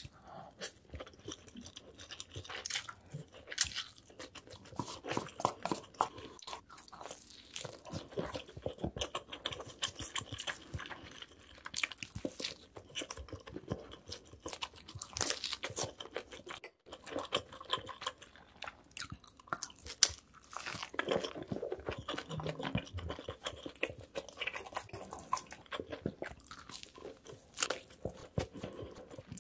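Close-miked eating sounds: wet chewing, biting and crunching of spicy noodles, cheesy pizza and crispy fried food. The stream of crackles is broken twice by abrupt cuts.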